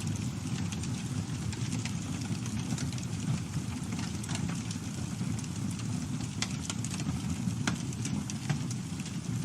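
Campfire burning: a steady low rumble of the fire with frequent sharp crackles and pops from the burning wood, scattered irregularly.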